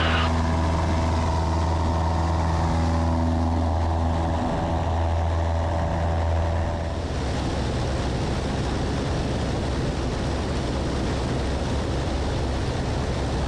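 Cessna 172S's four-cylinder Lycoming engine and propeller running at go-around power, a steady deep drone heard inside the cabin. About seven seconds in, the pitched hum drops away and a steady rush of engine and air noise remains.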